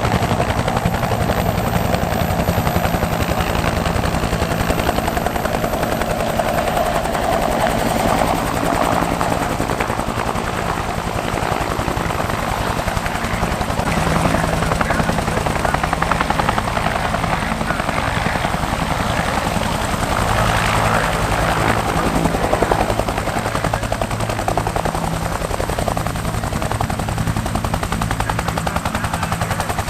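Helicopter rotor blades chopping steadily in a rapid, even beat, with the running turbine underneath.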